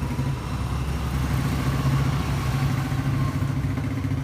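Yamaha RX-King's single-cylinder two-stroke engine idling steadily through an exhaust muffler that has been hollowed out for a louder, raspier note.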